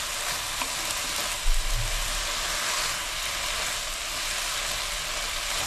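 Diced vegetables, chicken and scrambled egg sizzling steadily in a nonstick wok over a full gas flame as a spatula stirs them. A low thump comes about one and a half seconds in.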